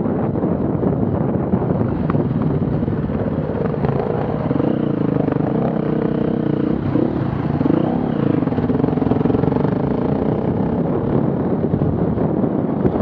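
An off-road vehicle's engine revving, its pitch rising and falling for several seconds in the middle, over heavy wind rumble on the microphone.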